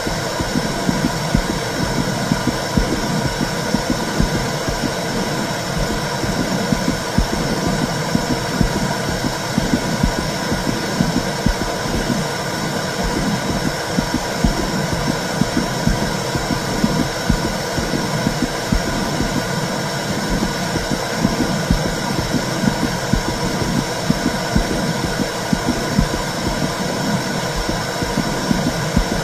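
Womb sound for soothing a baby: a steady, muffled whooshing with low pulses recurring throughout, like a heartbeat heard from inside the body.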